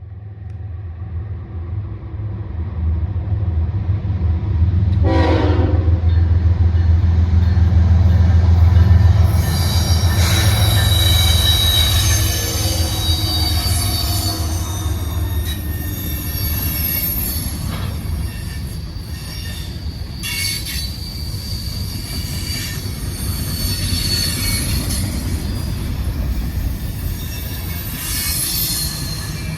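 Diesel freight locomotives pulling an autorack train past, their deep engine rumble building to a peak about eight to nine seconds in, with a brief horn sound about five seconds in. From about ten seconds on the passing railcars' wheels squeal high and steady, with a few sharp clanks.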